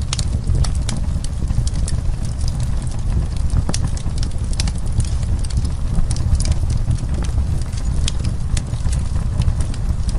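Wood fire burning, with many irregular sharp crackles and pops over a steady low rumble.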